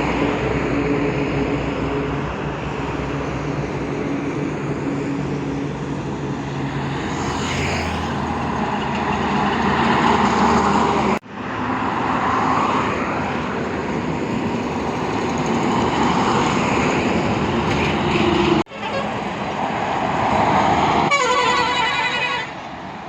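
Road traffic: heavy vehicle engines running and passing, with a vehicle horn sounding for about a second and a half near the end.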